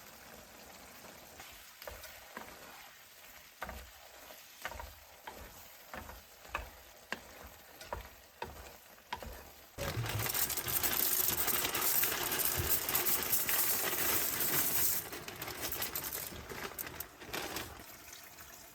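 A dozen or so light knocks and clicks of utensils, then about ten seconds in a sudden loud sizzle as food meets a hot cooking surface. The sizzle holds for about five seconds, then dies down.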